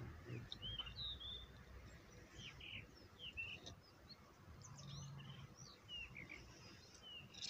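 Small birds chirping: many short, quick, sliding chirps, several a second at times, faint, over a low rumble.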